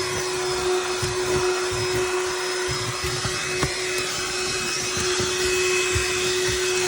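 Cordless BLACK+DECKER Dustbuster handheld vacuum running with a steady motor whine and airflow hiss, with irregular low knocks as it is worked. The owner says it has a hard time picking everything up.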